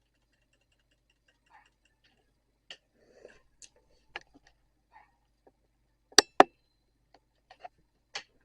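Irregular light clicks and taps, with two loud sharp clicks in quick succession about six seconds in.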